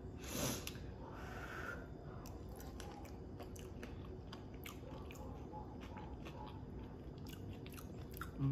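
A person chewing a mouthful of cornmeal-fried fish fillet with grits and crab meat: quiet chewing with many small mouth clicks throughout.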